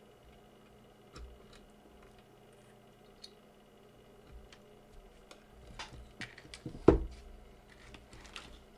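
Scattered light clicks and small knocks of parts and tools being handled on a workbench, with one louder knock just before seven seconds in.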